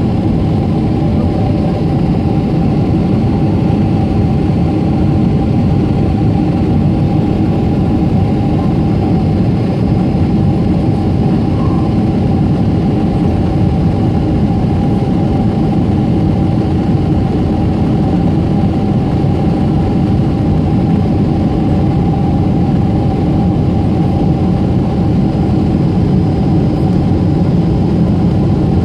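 Steady jet engine noise and airframe rumble of a Boeing 747-8's GEnx-2B engines, heard from inside the passenger cabin, with a few steady tones over a dense low roar that holds level throughout.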